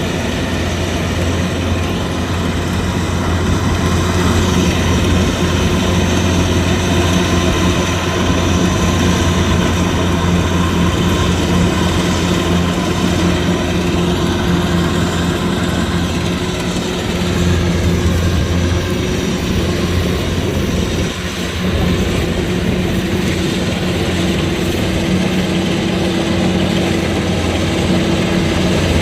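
Kubota DC-105X combine harvester's diesel engine and threshing machinery running steadily under load while harvesting rice, with a brief dip in level about two-thirds of the way through.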